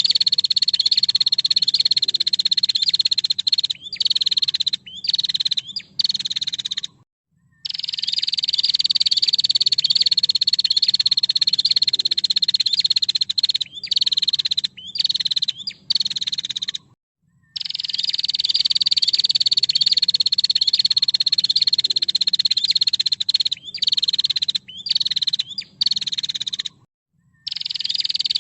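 Female prinia (prenjak) giving a long, rapid, buzzing trill, high-pitched and slightly falling, that breaks into a few short bursts before a brief pause. The same phrase repeats about every ten seconds, three times.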